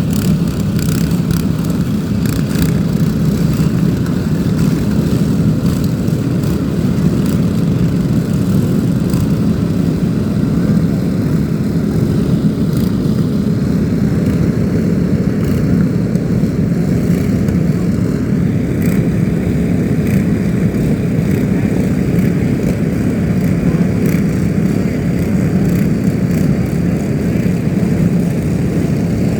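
A loud, steady low rumble of a vehicle or heavy machinery running without let-up.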